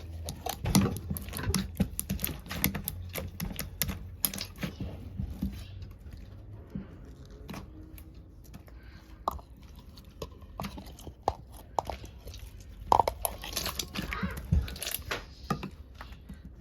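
Hands squishing and stretching holographic slime, making irregular sticky pops, clicks and squishes. The sounds are busiest in the first few seconds and again about thirteen seconds in, and sparser in between.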